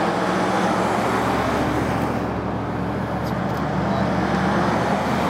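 A motor vehicle's engine running close by, a steady low drone that sets in at the start and holds level.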